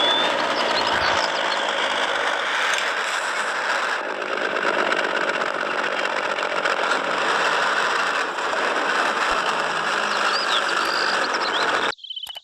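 A motor running steadily, with birds chirping over it; the motor sound cuts off abruptly near the end.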